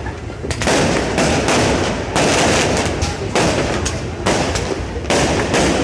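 Fireworks going off in a rapid, uneven series of loud bangs, about one every half second to a second, over a continuous dense noise of further bursts.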